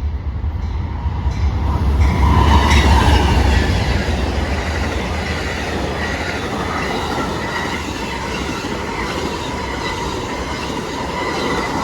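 Amtrak passenger train passing at speed behind GE P42DC diesel locomotives: a heavy low diesel rumble, loudest a couple of seconds in, gives way to the steady rush and clatter of the passenger cars' wheels on the rails, with faint thin high tones over it.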